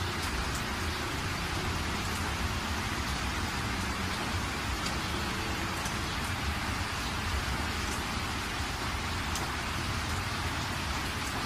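Steady rain falling: a dense, even hiss with a low rumble underneath and a few faint drop ticks.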